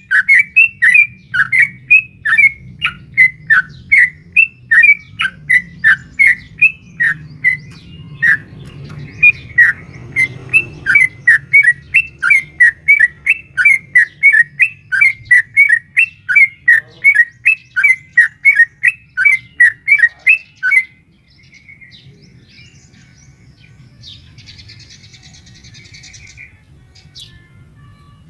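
Yellow-vented bulbul (trucukan) calling in a long rapid series of sharp, bubbling notes, about two to three a second, which is the call posted as a female calling a male. The series stops abruptly about three quarters of the way through, leaving only faint scattered chirps.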